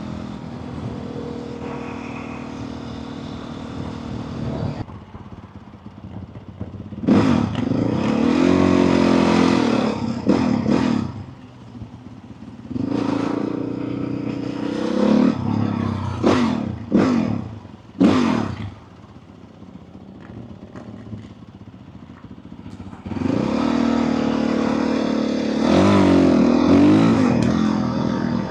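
Motorcycle engine riding along, revving up and easing off again and again, its pitch rising and falling through several pulls with quieter stretches between them.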